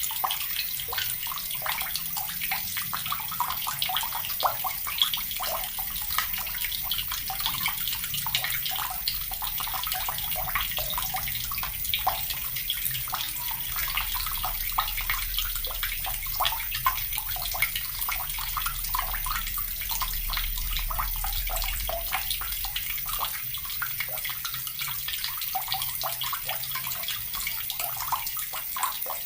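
Water running steadily from a tap and splashing into a basin, a continuous hiss full of small irregular splashes.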